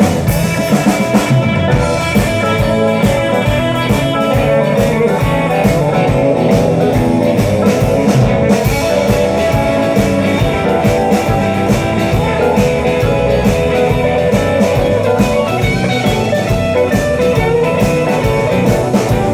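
Live rock-and-roll band playing an instrumental break, guitar to the fore over a steady drum beat.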